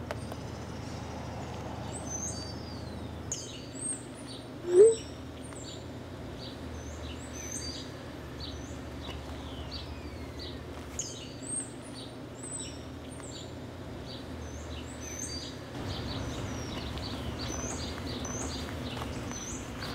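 Songbirds chirping repeatedly in short high calls over a steady low background rumble. About five seconds in, a brief loud rising tone stands out.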